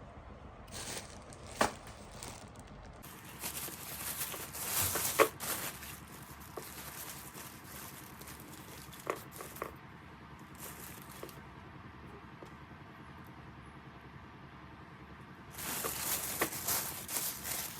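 Two bursts of rustling and crinkling, a few seconds each, with several sharp clicks or knocks, the loudest about five seconds in; quiet handling noise between them.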